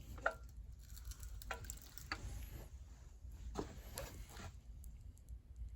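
Faint scattered clicks and short knocks of tools and parts being handled, over a low steady rumble.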